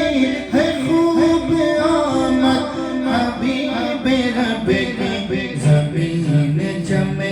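A naat, an Islamic devotional song, sung in a drawn-out melody of held and gliding notes, with little or no instrumental backing.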